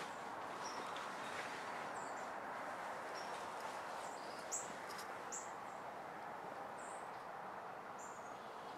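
Quiet outdoor ambience: a steady hiss with short, high bird chirps, each dropping in pitch, repeating irregularly about once a second, and a faint knock about four and a half seconds in.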